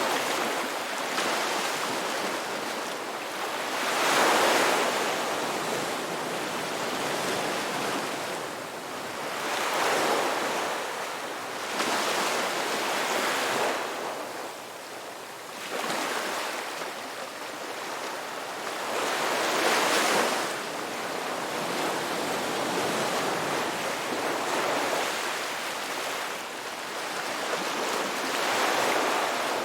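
Ocean waves surging in and washing back, a steady rush of surf that swells to a louder crest every several seconds, the loudest about 4, 10, 20 and 28 seconds in.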